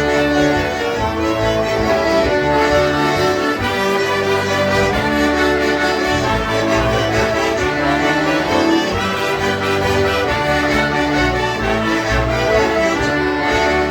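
Concertinas playing a polka together: reedy held chords and melody over a steady bass beat.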